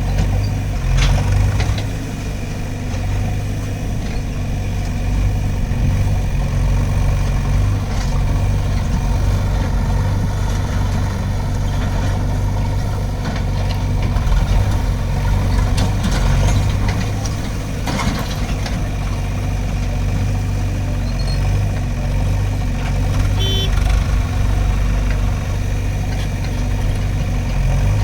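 Heavy diesel engine running steadily at an even speed, with a few short knocks and clanks.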